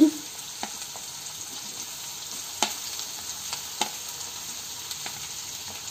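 Chopped onions and green chillies sizzling steadily in hot oil in a nonstick pan. A few sharp taps of a wooden spatula come through as chopped tomatoes are scraped off a steel plate into the pan.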